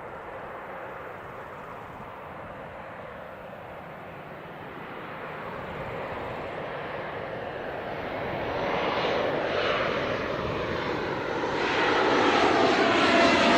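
Airbus A220-300 jet airliner on final approach, its Pratt & Whitney PW1500G geared turbofan engines growing steadily louder as it nears overhead. From about two-thirds of the way in, falling whistling tones sweep down through the engine noise.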